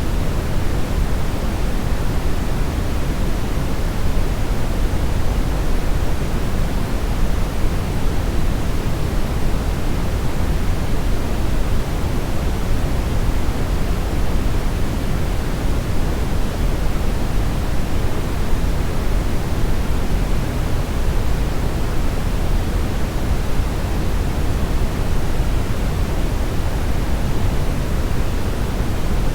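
Steady brownish noise: an even, deep rushing hiss, heaviest in the bass and thinning toward the treble, with no changes or events.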